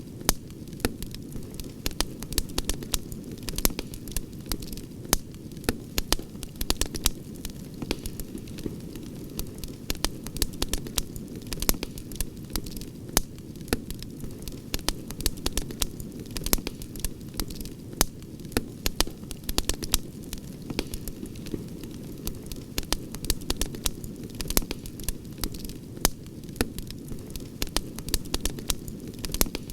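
Campfire crackling, with frequent sharp pops and snaps over a steady low rumble of the flames.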